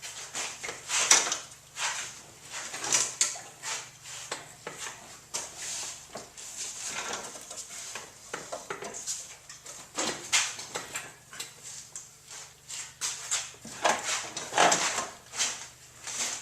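Irregular metallic clinks, taps and clatters of hand tools and metal parts being handled, with no steady rhythm.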